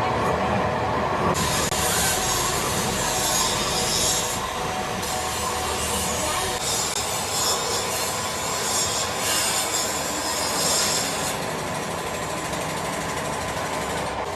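Metalworking factory noise: machinery running steadily, with four spells of loud high-pitched hissing or grinding, each lasting one to three seconds, between about a second in and eleven seconds in.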